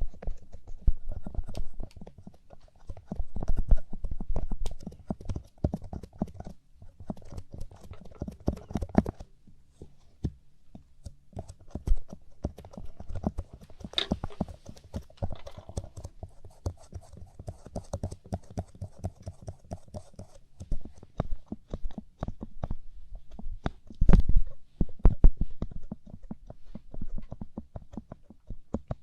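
Light-up ear pick scraping and tapping inside an ear right at the microphone: a dense run of small crackles and scratches, louder for a moment about five seconds before the end.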